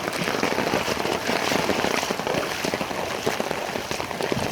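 Water splashing and pattering in a dense, irregular patter with no pause, as a person wades through pelvis-deep floodwater.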